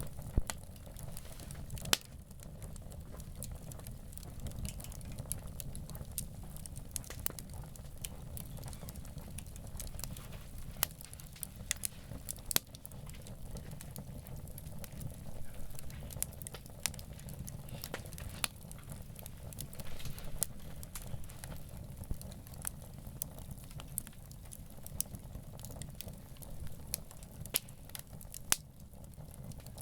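Wood campfire burning, crackling with scattered irregular pops and snaps over a steady low rumble.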